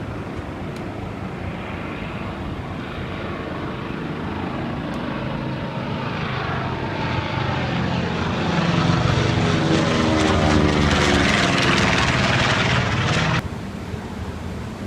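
Vintage propeller airplane taking off and passing close by: its engine grows steadily louder, then the pitch falls as it goes past, and the sound cuts off suddenly near the end.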